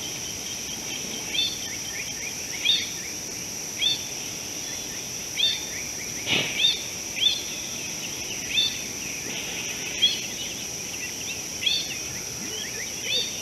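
A bird repeats a short, arched chirping call about once a second over a steady high-pitched insect drone. There is one brief dull thump about halfway through.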